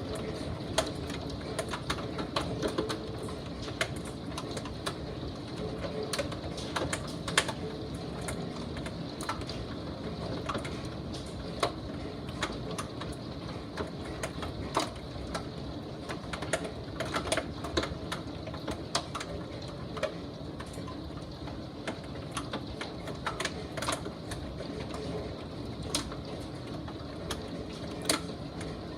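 Small hailstones falling and striking, heard as irregular sharp ticks over a steady rushing background.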